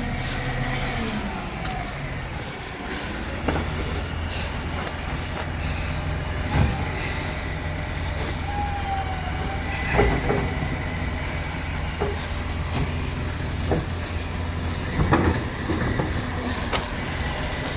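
Rubbish truck's diesel engine running steadily, with a series of sharp knocks and clunks scattered through it.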